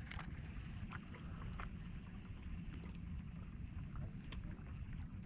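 Faint water lapping around a kayak, a steady low rumble with a few light, scattered ticks.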